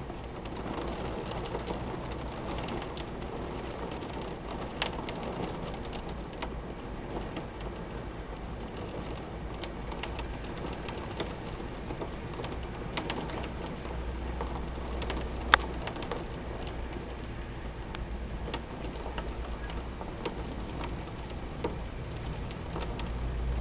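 Very heavy rain pouring steadily, with many sharp drops clicking on a nearby surface and one loud crack about two-thirds of the way through. A steady low rumble runs underneath.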